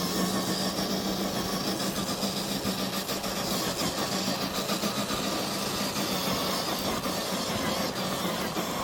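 Electric motor and gearbox of an FMS FJ40 radio-controlled crawler running with a steady whine as the truck drives, over a scatter of small clicks and crackles.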